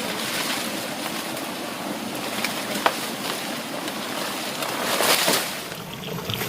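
Steady heavy rain, an even hiss with a few sharp ticks of drops, swelling briefly about five seconds in.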